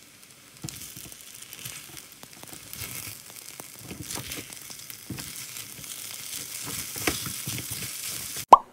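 Fried rice with radish kimchi sizzling in a nonstick pan while a spatula stirs and scrapes it, with a sharp clack about 8.5 seconds in.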